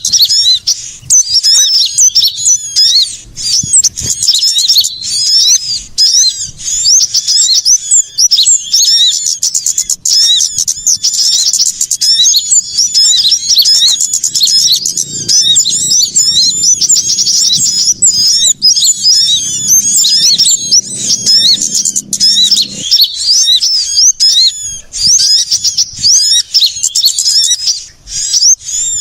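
Many small songbirds chirping and twittering noisily at once, quick high calls overlapping without a break.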